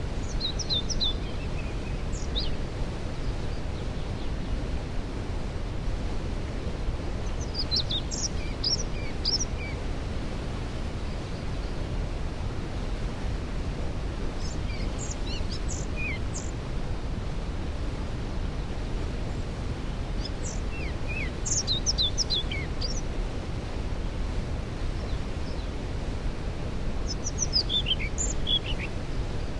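Steady rush of a waterfall, heaviest in the low end, with a songbird singing five short phrases of quick falling notes, one about every six or seven seconds.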